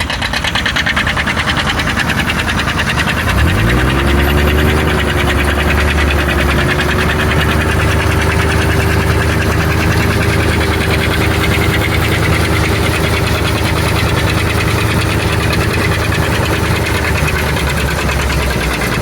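Old harvesting machinery with its engine running. About three seconds in, a strong pitched hum rises quickly and then holds steady, falling away near the end.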